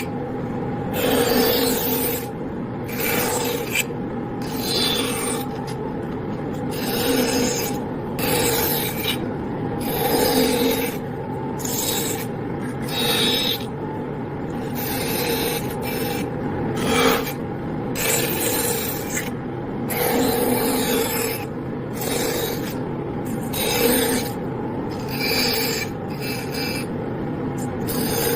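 Bandsaw running and cutting wood: a steady motor hum under the rasping hiss of the blade in the wood, which swells and fades every second or two as the piece is fed and turned through tight curves.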